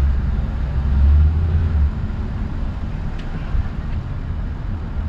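Ford Crown Victoria Police Interceptor's 4.6-litre V8 running with a low rumble, heaviest for the first two seconds, then steadier under road noise.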